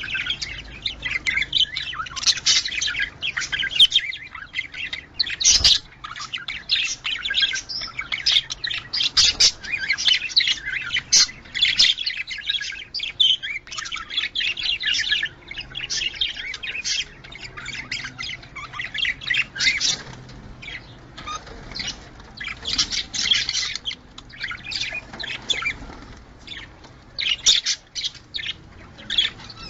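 Budgerigars chattering: a steady stream of quick chirps, warbles and the odd squawk, the busy chatter of budgies in breeding mood.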